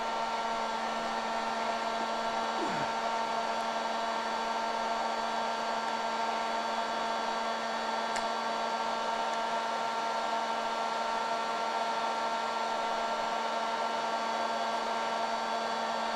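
Electric heat gun running steadily: an even blowing rush from its fan with a constant motor hum, heating a stuck part to loosen it.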